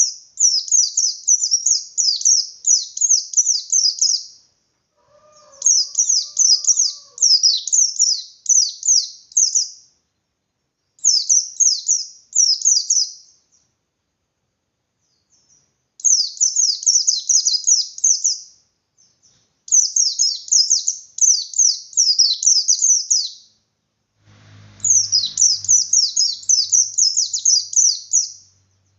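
White-eye (pleci) singing its fast 'ngalas' song: phrases of rapid, high, downward-slurred notes lasting two to four seconds, with short pauses between them. The song is loud and open-billed, the kind used to provoke other white-eyes into answering.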